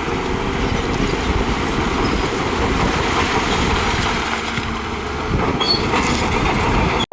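Heavy earthmoving machinery working rock: a diesel engine running steadily under a dense clatter and grinding, with a few metallic clanks and squeaks near the end. The sound cuts off abruptly just before the end.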